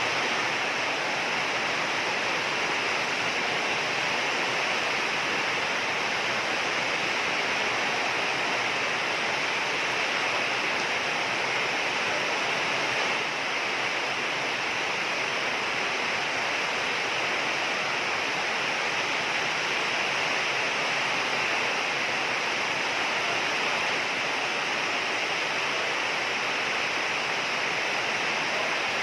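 Heavy rain falling in a dense, steady hiss that holds at an even level throughout.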